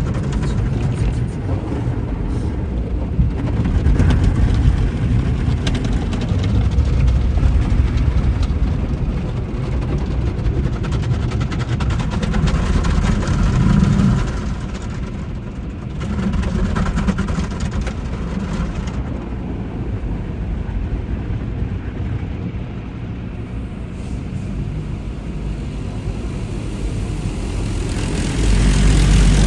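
Steady low rumble of a vehicle, swelling and easing, with a brief dip about halfway through and a rise near the end.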